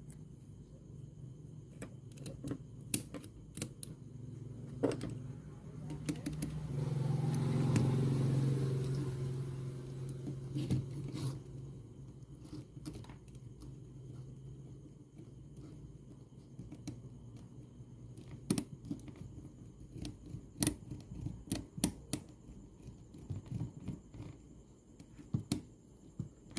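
Scattered clicks and light knocks of small parts and tools being handled, typical of bench work on a portable radio-cassette player. A low hum swells up about six seconds in and fades again a few seconds later.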